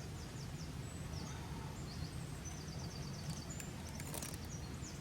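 Steady rush of a fast-flowing waterfall swollen by rain, with a small bird singing quick high trills over it.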